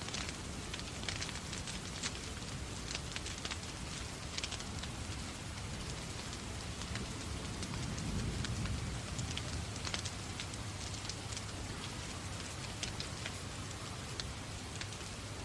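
Steady rain mixed with a wood fire crackling in many small sharp pops; a low rumble swells briefly about halfway through.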